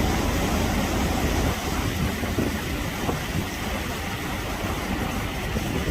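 Sea waves surging and breaking, a steady rush of noise with a heavy low rumble.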